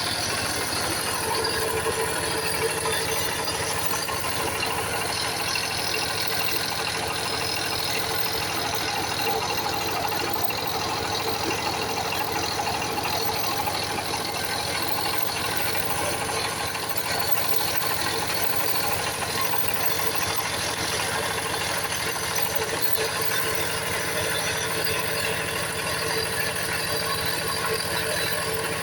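A small engine running steadily at one even speed.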